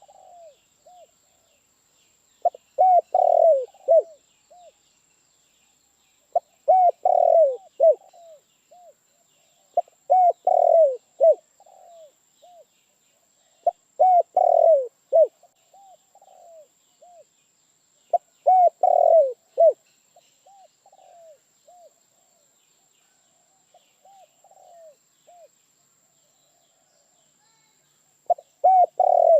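Spotted dove (tekukur) cooing: a repeated phrase of a few loud coos trailing off into softer notes, coming about every four seconds. There is a longer lull of only soft coos before the phrase returns near the end.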